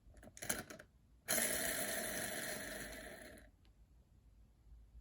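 Capsule-toy mini ventilation fan: a few light plastic clicks, then its propeller whirs after the pull string is released. The whir starts suddenly about a second in, fades over about two seconds as the propeller spins down, and stops.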